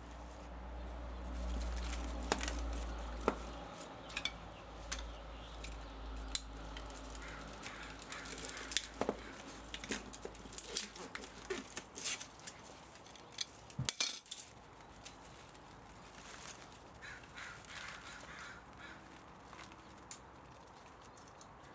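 Scattered light clicks and metallic clinks of hand tools and motor parts being handled while an old spa motor is taken apart for scrap metal. A low rumble runs under the first half and stops about halfway through.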